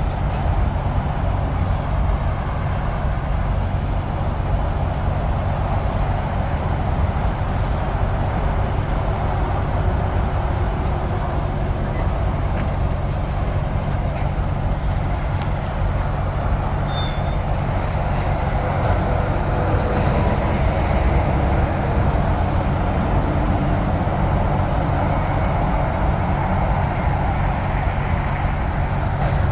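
Steady rumble of interstate highway traffic, cars and trucks passing continuously, with a deep low hum underneath.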